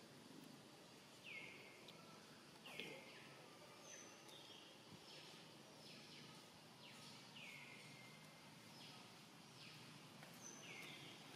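Faint background birdsong: a bird repeating short downward-sliding chirps about once a second, with a couple of brief higher peeps in between, over low background noise.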